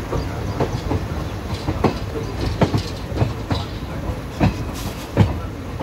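Moving passenger train coach running along the track: a steady rumble of wheels on rail, broken by irregular sharp clacks as the wheels cross rail joints.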